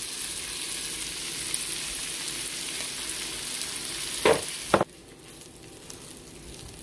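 Butter and cut hot dog pieces sizzling in a hot frying pan with a steady hiss. There are two short knocks about four seconds in, and then the sizzle suddenly drops much quieter.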